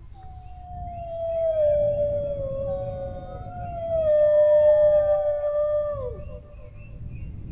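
A dog howling: two long howls, each starting higher and sliding slowly down in pitch, the second ending with a quick downward drop about six seconds in.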